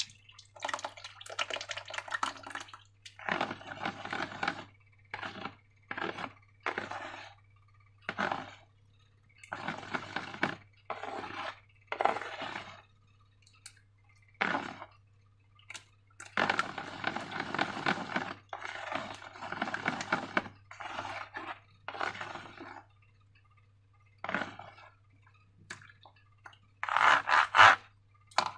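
Slime being squeezed and worked by hand: a series of short, irregular wet squelching sounds with pauses between them, the loudest near the end.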